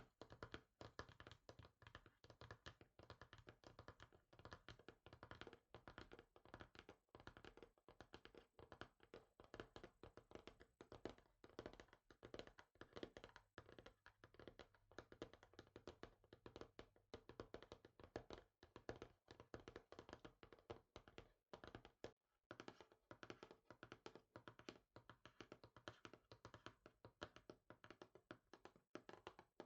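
Fingers tapping quickly and softly on a surface, many light taps a second in an uneven flurry, with one brief pause about three quarters of the way through.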